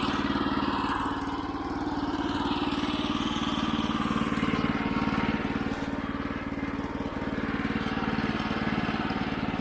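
Woodland Mills HM122 band sawmill's 9.5 hp gas engine running steadily at speed, with the hiss of the band blade cutting through a walnut log.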